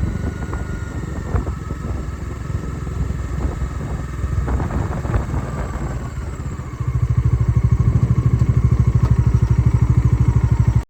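Motorcycle engine running. About seven seconds in it becomes louder with an even, rapid pulsing beat, then cuts off suddenly.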